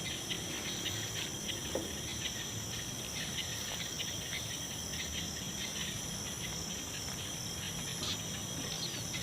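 Night insects, crickets, trilling steadily at a high pitch, with many short scattered chirps over the top.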